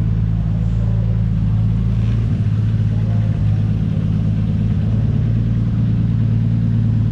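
Single-turbo car engine idling steadily as it warms up after a cold start.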